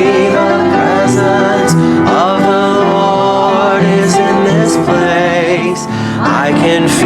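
Church choir anthem: voices singing held, wavering notes over piano accompaniment.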